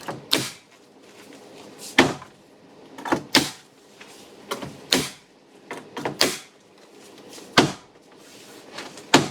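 Pine shiplap boards being fastened to a wall: about ten sharp knocks at irregular intervals, some in quick pairs, each ringing briefly in the room.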